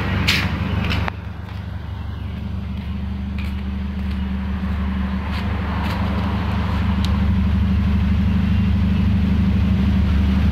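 Toyota Corolla DX's four-cylinder engine idling steadily, growing louder toward the tailpipe; the owner says the exhaust is leaking. A car door shuts with a thump about a second in.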